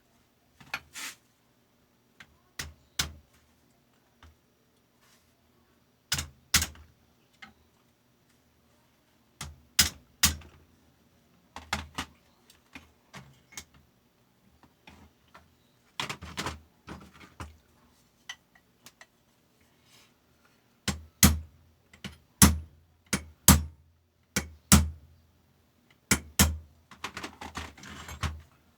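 Irregular clicks, taps and knocks from hand work on the knife sharpener of a fabric cutting machine, coming in scattered clusters with gaps between. The sharpest knocks come in a run about two thirds of the way through, and there is a brief rustle near the end.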